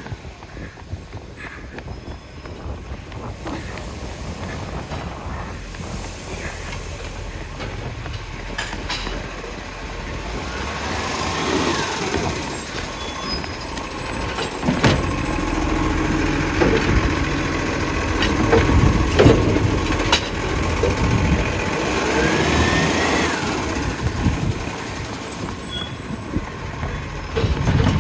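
Garbage truck engine running and getting louder as it draws closer, with several sharp knocks around the middle and two short rising-then-falling whines about ten seconds apart.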